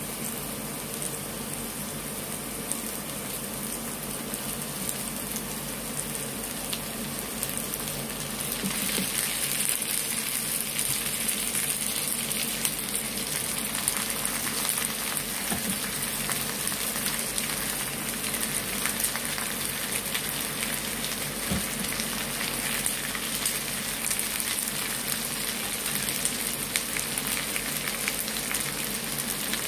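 Chicken breasts searing in hot oil over sautéed onion, garlic, ginger and chili: a steady sizzle and crackle that gets louder and brighter about eight seconds in.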